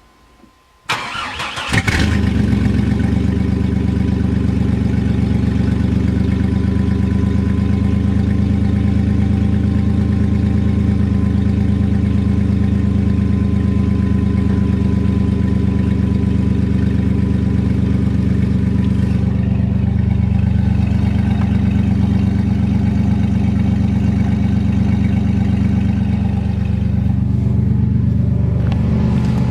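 1997 GMC Safari's 4.3-litre V6 cold-starting after sitting for days in deep cold: the starter cranks briefly about a second in, the engine catches just before two seconds in and then runs steadily.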